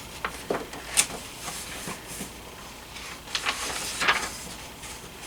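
Paper rustling and soft handling noises from a picture book being handled and a page turned: several short rustles, the strongest about a second in and again about four seconds in.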